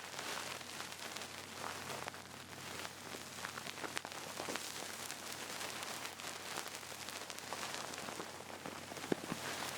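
Duck-feather ear pick brushing and swirling against the microphone. It makes a close, steady crackling rustle with scattered tiny ticks, and a slightly sharper tick about nine seconds in.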